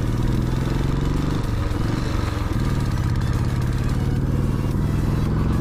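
Royal Enfield Classic 350's single-cylinder engine running steadily while riding along the road, with wind rush over it.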